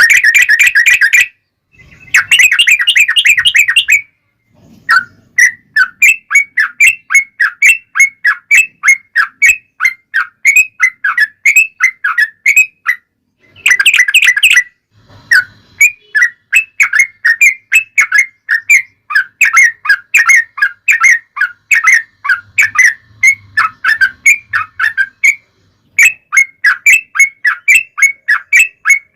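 Yellow-vented bulbul (trucukan) calls: long runs of quick, bubbly chirps, about four a second, broken by dense chattering bursts at the start and about halfway through, with short pauses between runs.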